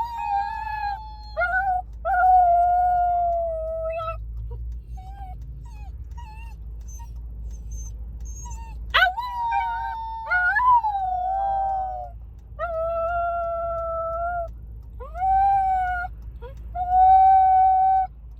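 A Pomsky (Pomeranian–husky mix) howling in a run of long drawn-out notes, with a person howling along with him; at times two howls overlap. A few short, fainter whimpering notes come between the howls.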